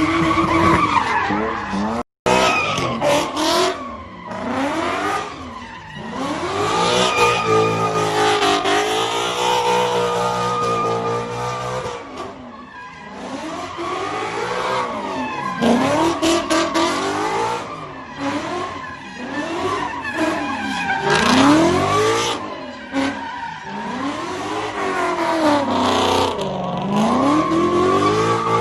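Car doing donuts: its engine revs up and down over and over while the tyres squeal and skid. The sound cuts out briefly about two seconds in.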